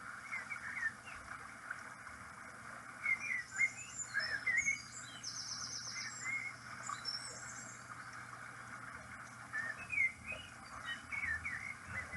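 Many birds chirping and calling, with a fast high trill about five seconds in, over the steady rush of a river's running water.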